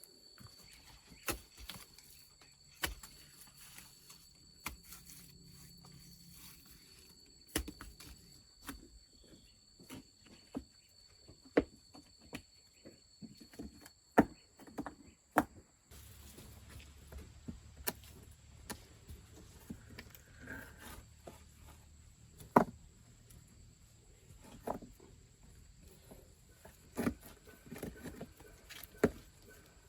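Irregular sharp knocks and clicks, a few of them loud, over a quiet background. A faint steady high tone stops about halfway through.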